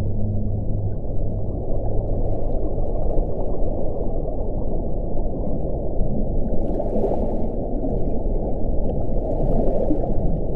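Wind blowing steadily with a low, dull rushing, a faint moaning tone dying away about a second in. Gusts swell briefly about two-thirds of the way in and again near the end.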